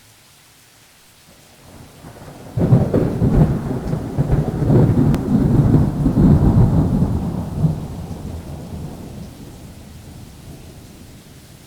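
Steady rain, then a clap of thunder about two and a half seconds in that rumbles loudly for several seconds and slowly dies away.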